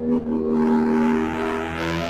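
Benelli TRK 502 X engine through an Arrow exhaust with the dB killer removed, revved up and held for about two seconds, then dropping back.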